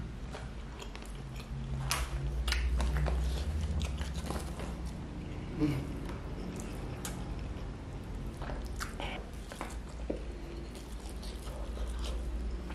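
Close-up chewing and biting of a nasi Padang meal eaten by hand, with scattered sharp clicks through the chewing.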